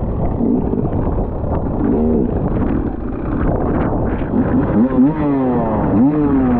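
Enduro motorcycle engine revving up and down, its pitch rising and falling once about two seconds in and several times in quick succession in the second half, over heavy wind buffeting on the microphone.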